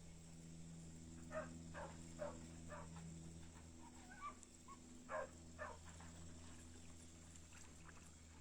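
Faint series of short animal calls, coming in quick bouts of four or five about half a second apart, with a pause between bouts, over a faint steady low hum.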